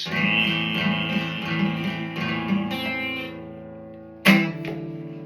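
Guitar closing a song: a strummed chord rings and slowly fades, then a last strum about four seconds in rings out and dies away.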